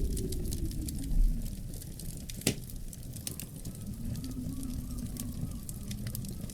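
Wood fire crackling in a fireplace: a steady low rumble of burning with frequent small sharp crackles, and one loud snap about two and a half seconds in.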